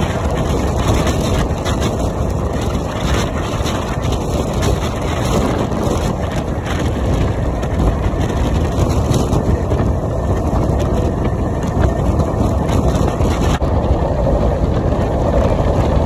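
Express passenger train running at speed, heard from an open coach door: steady rumble of the wheels on the track, with wind buffeting the microphone.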